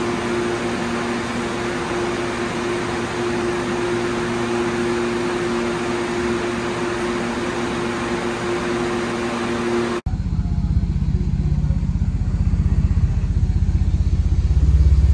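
A steady rushing blow with a low hum, as from the large dyno cooling fan. About ten seconds in it cuts to the turbocharged 3.8-litre V6 of a Hyundai Genesis Coupe idling on the dyno with a low exhaust pulse, which grows louder near the end.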